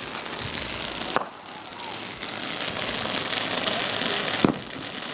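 Fireworks crackling and hissing steadily, with two sharp bangs: one about a second in and one near the end.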